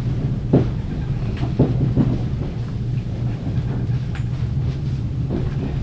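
Train rumbling steadily with a low hum, with a few sharp clunks in the first two seconds and another near the end.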